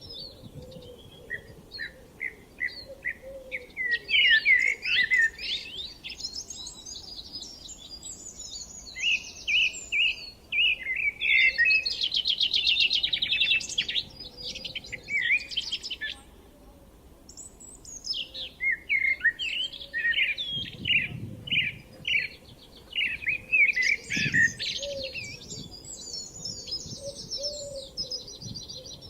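Songbirds singing: repeated phrases of chirps and rapid trills, with a short lull about halfway through.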